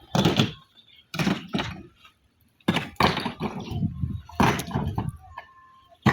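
A series of hard knocks and thuds, about five, spread a second or so apart, each followed by a brief clatter or rumble.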